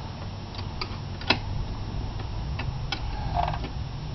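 Irregular clicks and light metal taps from hand tools working on ATV exhaust fasteners, the loudest about a second in, over a low steady hum.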